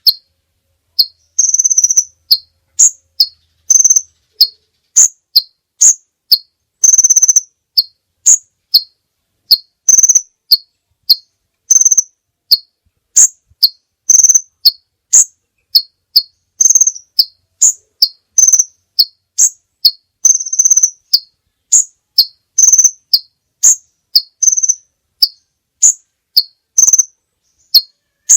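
Recorded songbird chirping played as masteran tutoring audio: short, high chirps, often in quick high-low pairs, repeated about twice a second with clean silent gaps between them.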